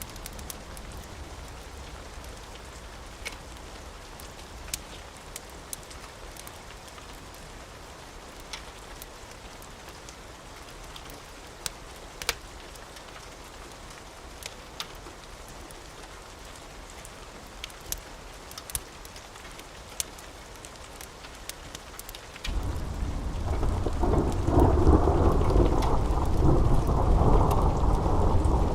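Steady rain with scattered sharp pops. About two-thirds of the way in, a loud, deep roll of thunder starts suddenly and keeps rumbling.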